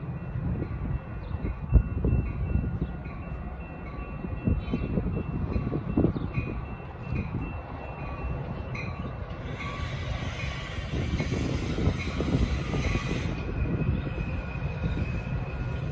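Metra bi-level commuter train approaching cab car first, a low steady rumble. A single sharp thump comes about two seconds in, and a hiss starts about ten seconds in and cuts off abruptly about three seconds later.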